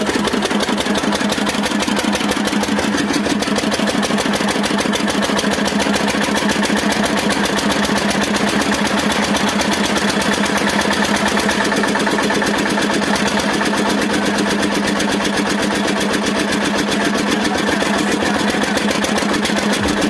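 Field Marshal tractor's diesel engine running steadily, with a fast even beat that holds at the same speed throughout.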